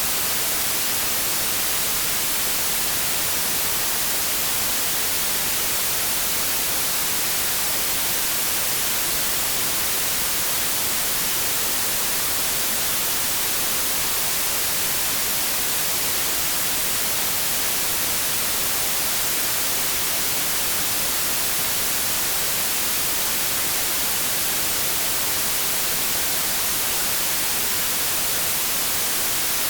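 Steady, unbroken white noise: an even hiss, strongest in the high frequencies, with no change in level.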